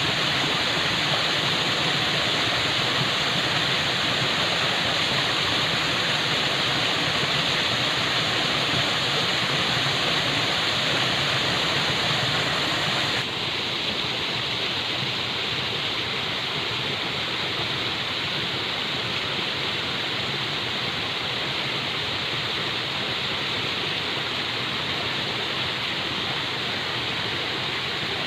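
Falling water rushing steadily. About thirteen seconds in, the sound changes abruptly, becoming slightly quieter and less hissy, then continues steadily.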